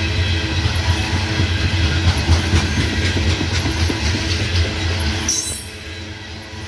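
Freight train cars rolling past at speed: a loud, steady rumble of wheels on the rails with a dense rattle of clicks. The rumble eases for about a second near the end.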